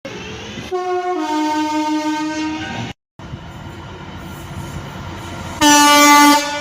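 Train horns: a two-tone horn sounds a short high note, then a longer low one lasting about two seconds. After a brief silence comes rumbling train noise, then a second loud horn blast of about a second near the end.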